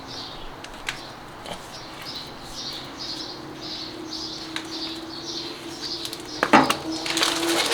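A small bird chirping repeatedly, short high chirps about twice a second. From about six and a half seconds in, loud clicks and rattles of handling come in over it.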